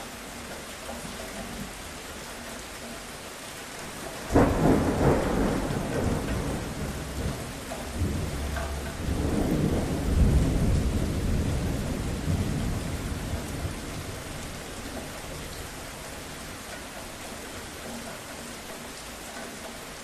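Steady rain with a thunder clap breaking sharply about four seconds in, a deep rolling rumble that swells again a few seconds later, then fades back under the rain.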